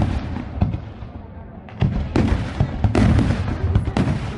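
Fireworks going off in rapid volleys of cracks and bangs over a low rumble. The barrage eases about half a second in, then a fresh salvo starts at about two seconds.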